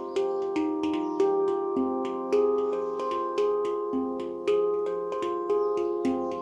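Handpan in F low pygmy tuning by Nimo Sounds, played by hand in a free improvisation: single notes struck about twice a second, each ringing on with bell-like overtones so that several overlap.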